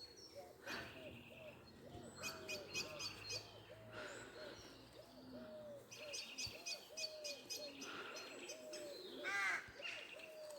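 Woodland birdsong: a long run of short, repeated low hooting notes, with several bursts of fast, high-pitched songbird trills over it.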